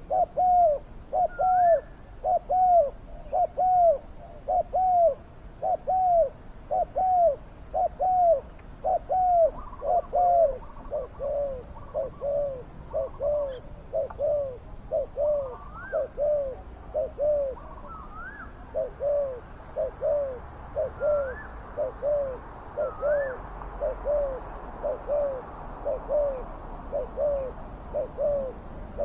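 Spotted dove (terkukur) cooing in a long unbroken run of short arched coos, about one and a half a second, with faint higher rising notes from another bird scattered over it.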